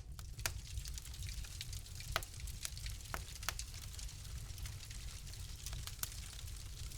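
Wood fire crackling in a fireplace: irregular sharp pops and snaps over a soft hiss and a low rumble, the loudest snap a little over two seconds in.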